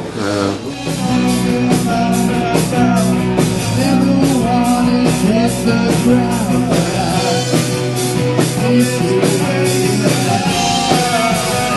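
Live rock band playing: a singer over amplified instruments with a steady drum beat.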